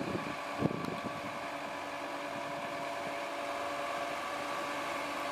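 Diesel engine idling steadily, with a brief knock under a second in.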